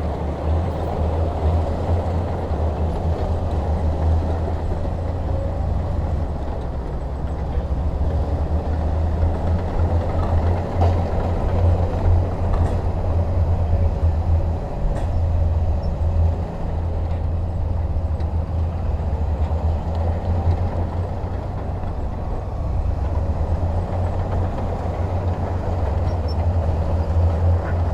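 Heavy diesel machinery engine running steadily with a deep, low rumble that swells and eases slightly.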